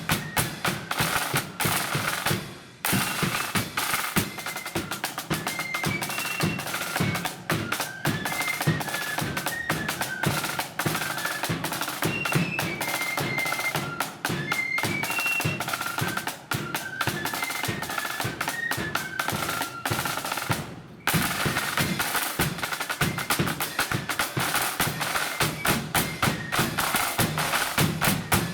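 Marching flute band playing: rapid, dense snare drumming with bass drum beats under a high flute melody that carries from about five seconds in until about twenty seconds in. The band stops briefly twice, once near the start and once about two-thirds through, then carries on.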